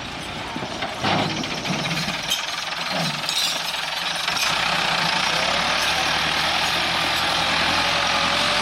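Massey Ferguson 385 tractor's diesel engine running loud and steady. It gets louder about a second in, with a few brief shifts in pitch over the next couple of seconds, then holds a steady note.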